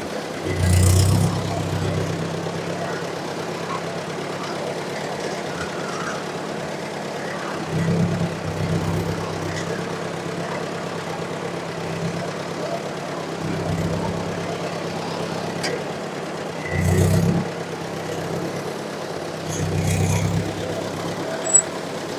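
1954 Ford NAA tractor's four-cylinder gasoline engine idling steadily, swelling louder briefly several times.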